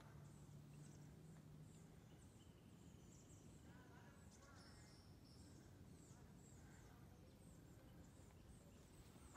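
Faint woodland birdsong: many short, high-pitched chirps repeating over quiet forest ambience, with a faint low hum for about the first two seconds.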